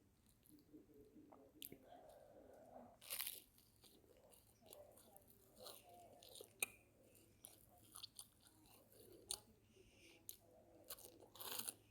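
A person chewing and biting crunchy garlic bread close to the microphone: quiet, irregular crisp crunches and mouth clicks, with louder crunches about three seconds in and near the end.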